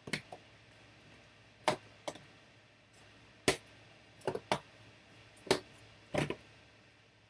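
A string of sharp, irregular knocks and clicks from sealed trading-card boxes and packaging being handled and set down on a table.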